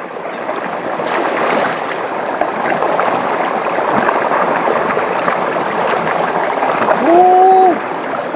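Steady rushing of river water. About seven seconds in, a person makes a short, held vocal sound over it.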